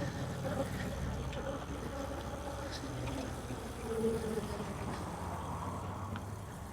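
Steady low rumble of road traffic heard from a moving e-bike, a little heavier at first, with a few faint short tones over it.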